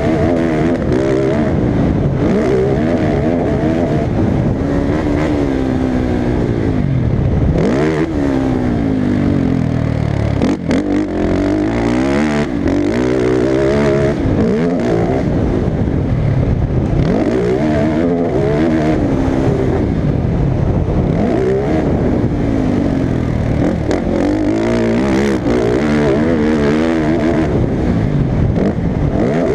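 Off-road racing engines revving hard and falling off again and again as the throttle is worked through turns and straights. There are a few sharp knocks near the middle.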